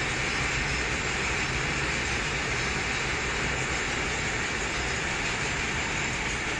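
Loaded freight wagons of an Indian freight train rolling past, a steady rumble and hiss of wheels on rail.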